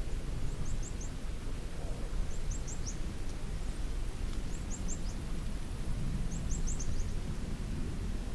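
Outdoor ambience: a steady low rumble with a small bird calling over it. The bird gives four short phrases of three or four quick, high, slightly falling chirps, about two seconds apart.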